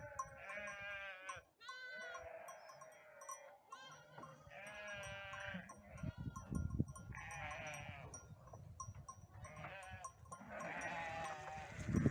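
Chios sheep bleating repeatedly, about nine wavering calls one after another, some high-pitched and some lower.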